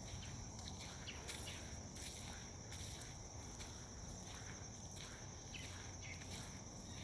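Faint steady high-pitched trilling of insects, with footsteps walking on a path at a regular pace.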